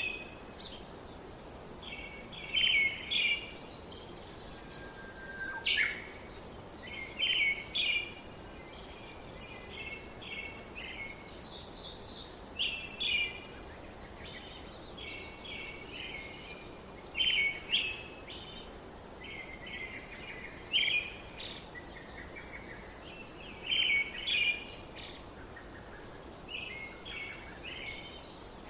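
Songbirds singing: short chirping phrases about half a second long, repeated every one to three seconds, over a steady faint hiss of outdoor background.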